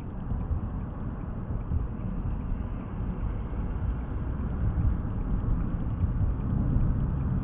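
Road and engine noise of a moving car heard from inside the cabin: a steady low rumble that grows somewhat louder through the stretch.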